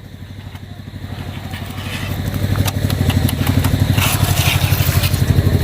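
An engine running with a fast, even beat, getting louder over the first two seconds and then holding steady, with a few sharp knocks around the middle.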